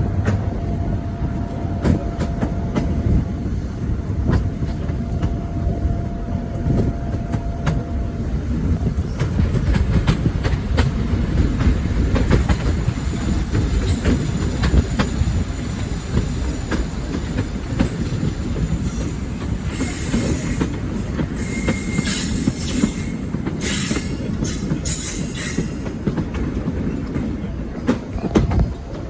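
A diesel-hauled train running on the rails, with a steady low rumble and many short wheel clicks over the track. High-pitched wheel squeal comes in bursts about twenty seconds in.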